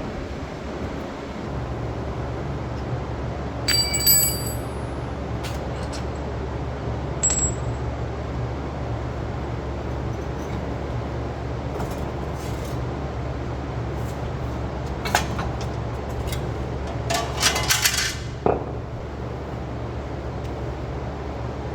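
Hand tools and small metal parts clinking and rattling while an ABS sensor wire is removed from a truck's front hub, over a steady low hum. One ringing metal clink comes about four seconds in, and a quick cluster of rattling clicks comes near the end.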